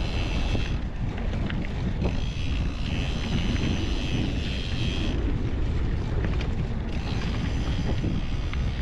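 Wind buffeting the microphone and tyre rumble as a mountain bike rolls fast down a dirt trail, a steady rushing noise.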